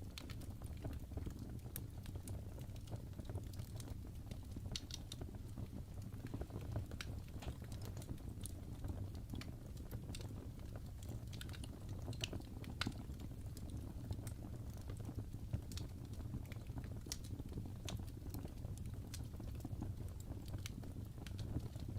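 Wood fire burning in a fireplace: a steady low rumble of flame with frequent small, sharp crackles and pops scattered throughout.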